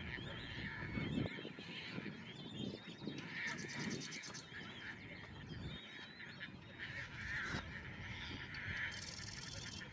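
Birds calling: repeated honking calls mixed with a warbling chatter. A fast, high rattling trill comes twice, about three and a half seconds in and near the end.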